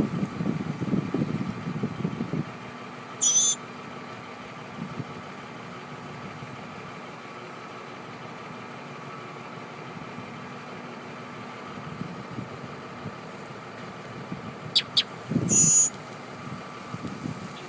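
Baby birds giving short, high-pitched calls twice, about twelve seconds apart, each under half a second long. Low scuffling noise in the first couple of seconds.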